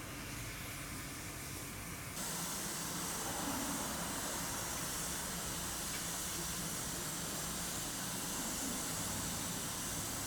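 Steam hissing steadily from the Manor class steam locomotive 7820 Dinmore Manor, starting suddenly about two seconds in, over a low rumble.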